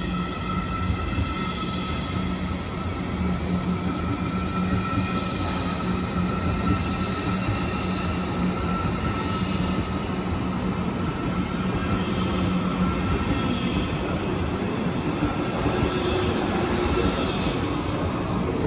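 ICE high-speed electric train rolling slowly along a station platform: continuous rolling rumble with a steady low hum and a high electric whine from the traction equipment.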